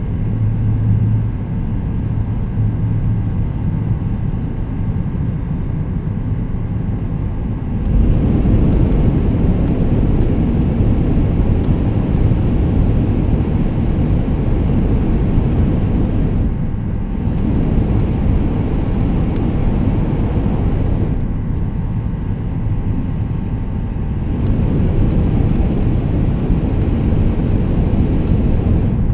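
An E2 series Shinkansen running at speed, heard from inside the passenger cabin: a steady rumble of wheels and rushing air with a faint, steady motor whine. About eight seconds in the noise gets suddenly louder and fuller as the train enters a tunnel.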